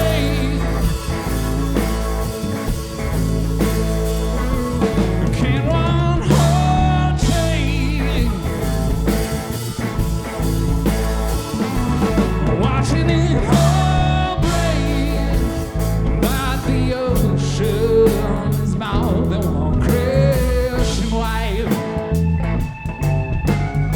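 Rock band playing live, an instrumental stretch: a lead melody with bending, wavering notes over a steady bass line and drums.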